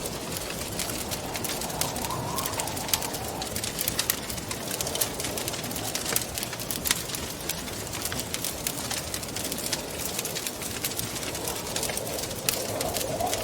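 Wood fire crackling with frequent sharp pops over a steady rush of wind. The wind rises into a low, wavering howl about two seconds in and again near the end.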